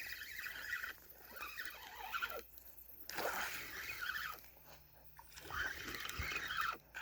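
Fishing reel being cranked in spurts with a fish on the line, a fluttering whir with short pauses between bursts of reeling.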